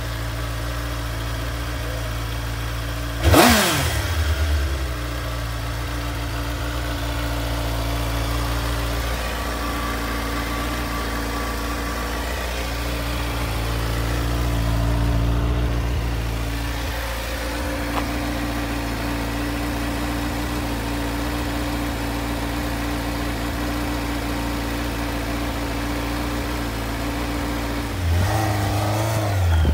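2004 Suzuki GSX-R600's inline-four engine, running on new spark plugs, as the motorcycle goes past once about three seconds in, its pitch dropping as it passes. A steady low engine hum runs underneath, and the sound swells again near the end.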